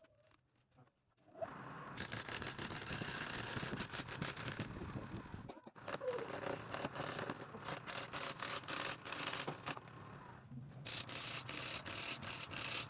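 A tool scraping and rubbing rough against wood, as in woodturning. It starts about a second and a half in and breaks off briefly twice, once near the middle and once toward the end.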